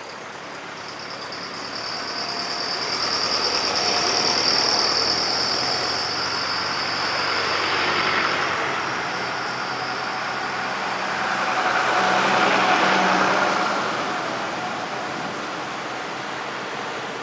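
Vintage tractor engines driving past one after another, the sound swelling and fading with each of about three pass-bys. A steady high whine runs through the first half and stops about nine seconds in.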